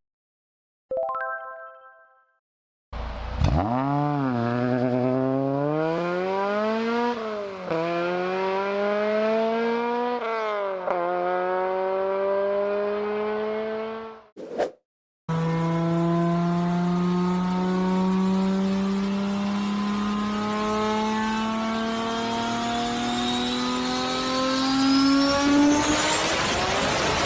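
A Japanese performance car's engine revved several times, its pitch swooping up and falling back, then held in a long hard pull with the pitch slowly rising. A thin high whistle climbs sharply over the last few seconds.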